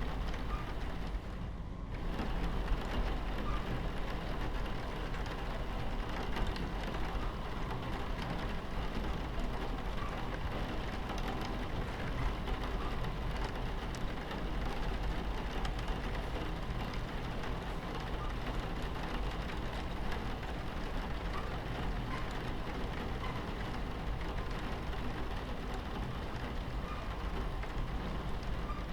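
Rain pattering on a train window over the steady low rumble of a train running on its tracks. The rain briefly drops out about two seconds in.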